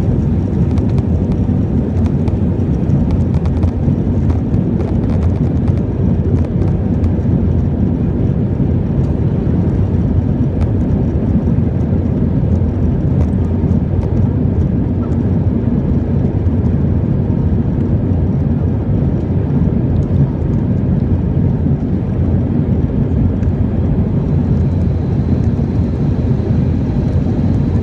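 Steady engine and airflow noise of a jet airliner heard from inside the passenger cabin during the climb after takeoff, with a few faint rattling ticks. A faint high whine comes in near the end.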